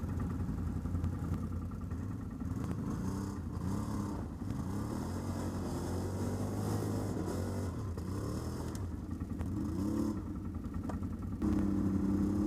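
ATV engines running in low gear, with a tone that rises and falls repeatedly in the middle as the throttle is worked, and a steadier higher tone near the end.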